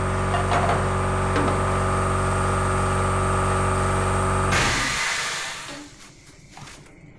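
A workshop machine's motor running steadily, then switched off about four and a half seconds in, with a short hiss as it winds down.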